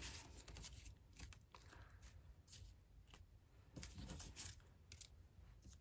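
Near silence with faint, scattered rustles and light taps of paper craft materials being handled on a desk.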